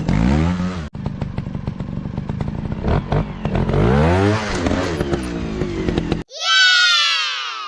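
Motocross bike engines revving, the pitch rising and falling repeatedly as the throttle is worked. Near the end the engine sound cuts off abruptly and a loud tone sliding down in pitch takes over.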